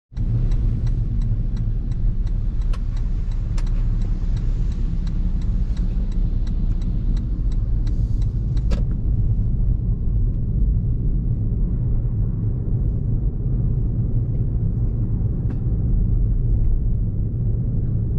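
Steady low road and engine rumble of a car cruising on an expressway, heard inside the cabin. For the first eight or nine seconds a regular ticking runs over it, about three ticks a second, then stops.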